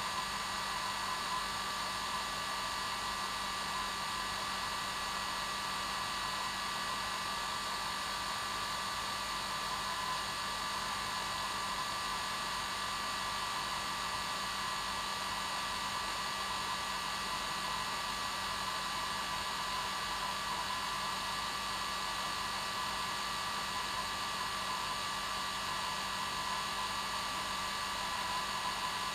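Hair dryer running steadily on its normal setting: an even rush of blown air with a steady motor whine, unchanging.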